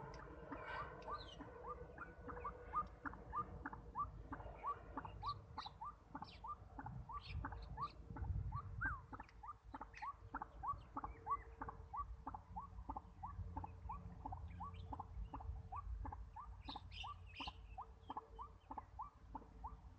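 White-breasted waterhen giving its repeated "ruak-ruak" call: a long, even series of short rising notes, about two to three a second, without a break.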